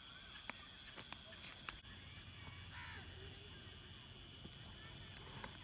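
Faint outdoor background with a few light clicks, and a bird calling once about halfway through.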